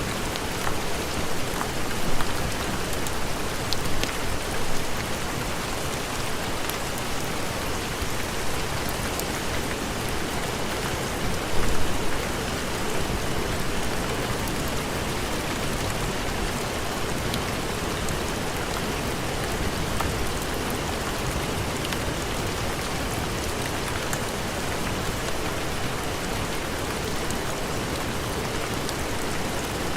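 Steady heavy rain falling, an even hiss with scattered sharp drop ticks. It swells briefly louder a few times: around two and four seconds in, and once more about twelve seconds in.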